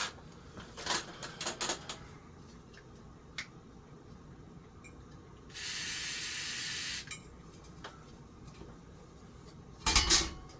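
An aerosol can sprayed in one steady hiss of about a second and a half, with small clicks and knocks from parts being handled shortly before and again near the end.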